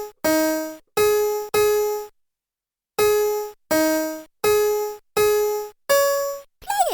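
Playskool Magic Screen Learning Desk's synthesized piano-like tones playing a simple tune one note at a time, each note fading quickly, with a pause about two seconds in and a quick falling swoop near the end.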